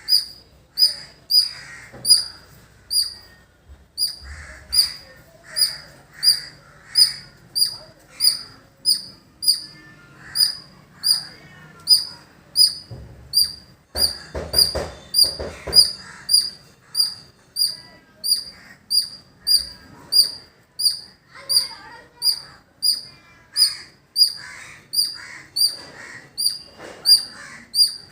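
Squirrel calling with a long, steady run of short, sharp, high-pitched chirps, evenly spaced at about one and a half a second.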